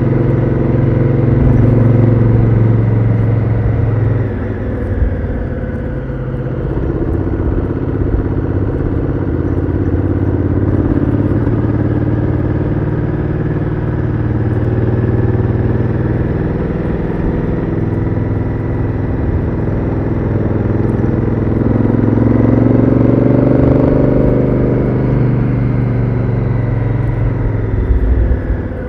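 Honda Africa Twin CRF1000L's parallel-twin engine running through its stock exhaust while riding, heard from onboard. The engine note drops about four seconds in, holds fairly steady, then climbs and falls away again near the end.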